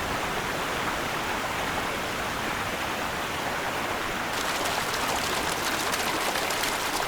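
Rushing river water, a steady wash of noise. A little past halfway it turns brighter and hissier.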